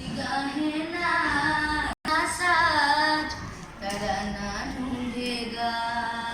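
A child singing solo in long held, wavering notes. The sound cuts out for an instant about two seconds in.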